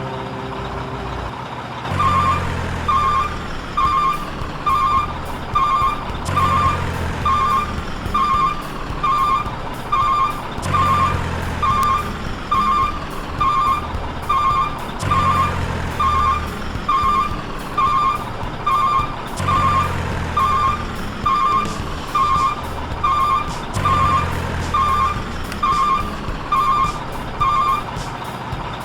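Electronic reversing-alarm beeps, about one a second, starting about two seconds in, over a low engine rumble that swells and fades every four seconds or so, like a looped truck sound.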